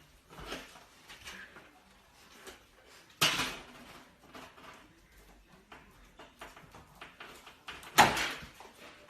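Two loud knocks about five seconds apart, each dying away briefly, among scattered small clicks and rustles.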